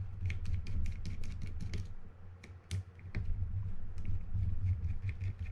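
Irregular small clicks and taps from a small screwdriver and metal reel parts being handled while a spinning reel's top cover and bearing cover are taken off, over a steady low hum.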